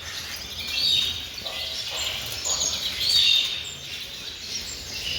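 Many small caged birds chirping and twittering together, with a few louder chirps standing out about a second in and again about three seconds in.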